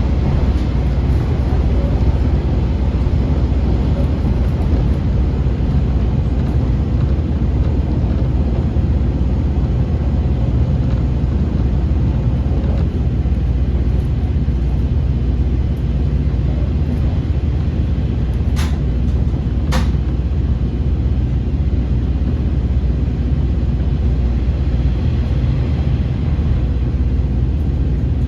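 KiHa 40 series diesel railcar running along the line, a steady low rumble of engine and wheels. Two sharp clicks about a second apart come about two-thirds of the way through.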